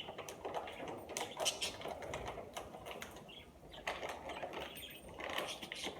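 Scissors snipping and cutting open a package, an irregular run of short clicks and crackles.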